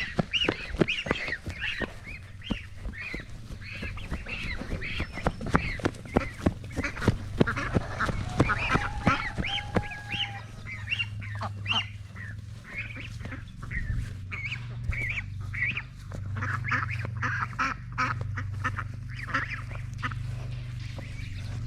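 A flock of domestic ducks and geese calling, many short quacks and honks overlapping and repeating, with scattered clicks and a low steady hum underneath in the second half.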